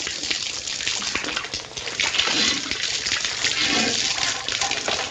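Water rushing and hissing from a leaking household pipe, a steady noisy gush on an old film soundtrack.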